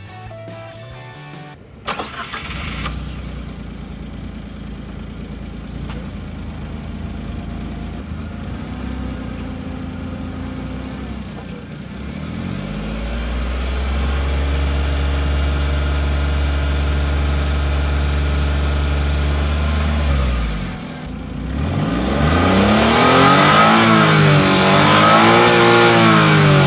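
Suzuki Every kei van's 660 cc three-cylinder engine on its stock muffler, started about two seconds in and idling. It revs up and holds at raised revs for several seconds, drops back briefly, then is blipped up and down repeatedly near the end.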